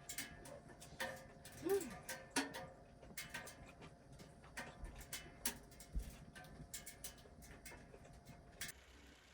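A string of irregular light clicks and knocks at close range, some louder than others, over a faint steady hum that stops near the end.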